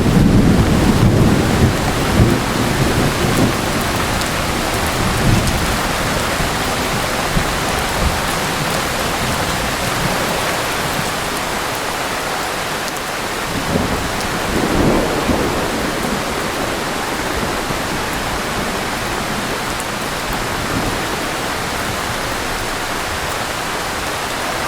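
Heavy rain falling steadily in a thunderstorm. A low rumble sits under the rain over the first few seconds and fades away, and a smaller swell comes about two-thirds of the way through.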